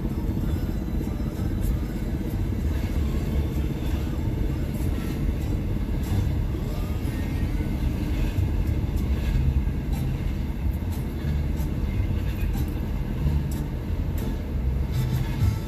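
Steady low rumble of a moving vehicle, with scattered brief clicks and knocks over it.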